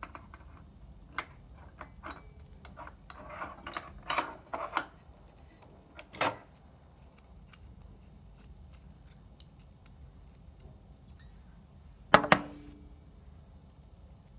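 Small clicks, scrapes and knocks of hard parts being handled, a clunk about six seconds in, and a louder double clunk near the end that rings briefly.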